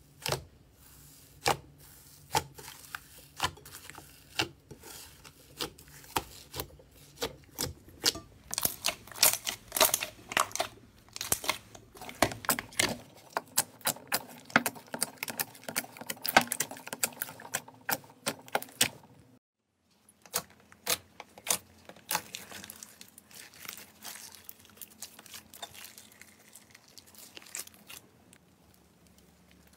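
Slime being squeezed and pressed by hand: a run of sharp sticky clicks and crackling pops, thickest in the middle, with a brief break about two-thirds of the way through before lighter clicking resumes.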